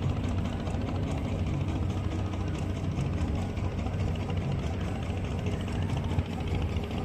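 A boat engine running steadily, a low, even drone with a fast regular pulse.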